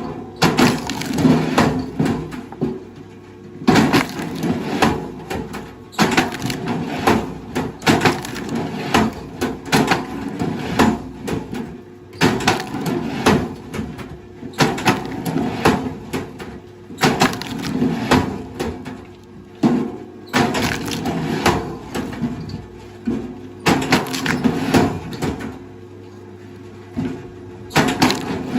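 Wood cracking and splintering in repeated bursts, one every one to two seconds, over a faint steady machine hum.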